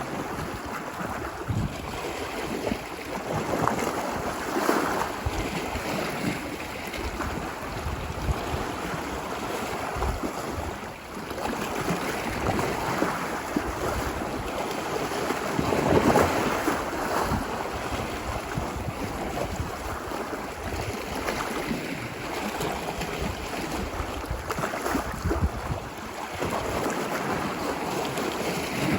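Ocean waves washing ashore on a beach, a continuous surf wash that swells with each breaking wave, the loudest about sixteen seconds in, with wind buffeting the microphone.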